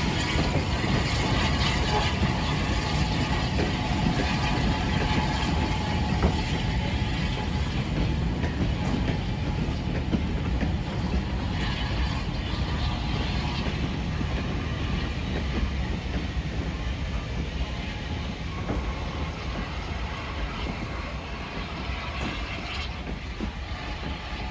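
A train running by on the line: a steady rumble that slowly fades over the second half.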